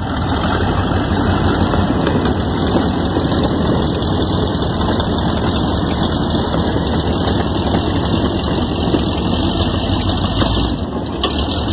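A vehicle engine running steadily while the vehicle is driven.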